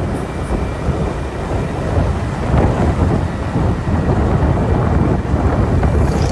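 Loud, steady low rumble of wind buffeting the microphone on a moving motorbike, mixed with road and engine noise.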